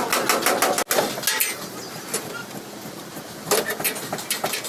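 Quick clicks and knocks of tool work in a body repair workshop, busiest in the first second and again near the end.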